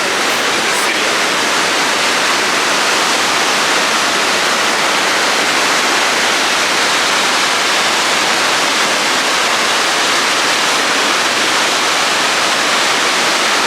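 Loud, steady rushing of Victoria Falls, the Zambezi's water pouring into the gorge, a dense even roar without letup.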